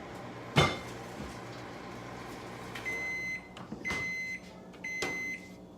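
Microwave oven running with a steady hum, a sharp clack about half a second in, then its end-of-cycle beeps: three high, even beeps about a second apart, starting about three seconds in.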